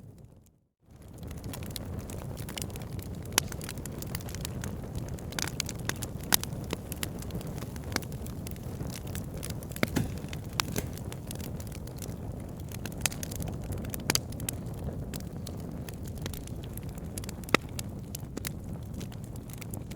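Wood fire burning: a steady low rumble with frequent sharp crackles and pops from the burning logs. The sound cuts out briefly just after the start, then picks up again.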